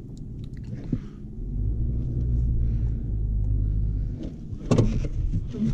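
2005 Ford Ranger's 4.0-litre V6 running on its newly replaced spark plugs as the truck is driven, a low rumble that grows louder about a second and a half in and eases off about four seconds in. A sharp knock sounds near the end.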